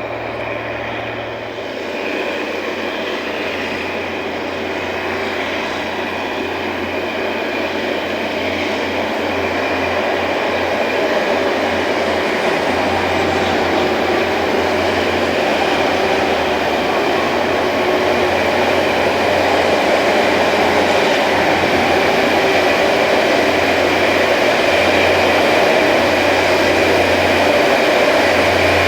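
Rail grinding train working along the track: a continuous dense grinding noise with steady tones running through it, growing gradually louder as it comes closer.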